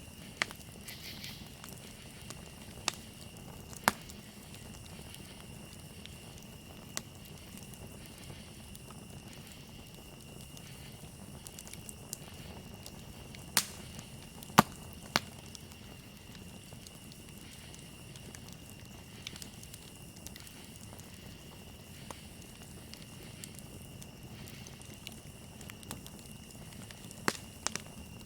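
Campfire burning with a low steady hiss and irregular sharp pops and crackles, the loudest few clustered around the middle. Crickets chirp steadily at one high pitch behind it.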